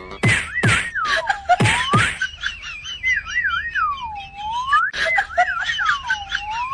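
Whistling: a repeating phrase that warbles quickly on a high note, then swoops down and back up. Several quick falling swoops sound in the first couple of seconds.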